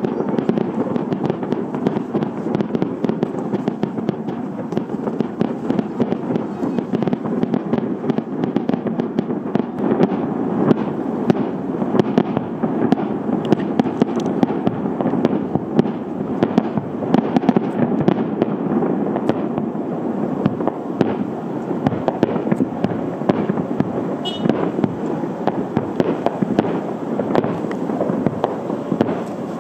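Fireworks display: aerial shells bursting one after another in quick succession, making a continuous run of bangs and crackling with no break.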